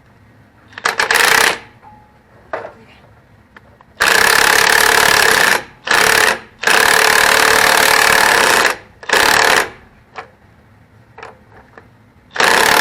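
Impact wrench running on the control arm nuts in several short bursts, each starting and stopping abruptly, with the longest about two seconds.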